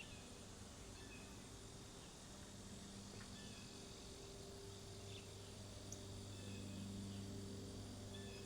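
Faint, scattered short chirps of small birds around a bird feeder, heard over a steady low hum.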